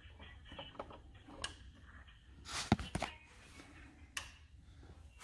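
A few faint clicks and a brief rustle, about two and a half seconds in, with a sharp knock in it and another click near four seconds: small handling noises.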